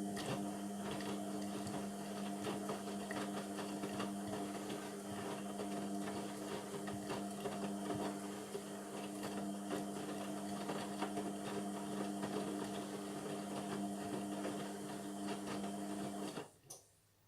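Indesit MTWC71252WUK washing machine's motor turning the drum during the wash, a steady motor hum with light clicking and rattling. It starts suddenly and stops suddenly near the end, one tumble of the stop-start wash action.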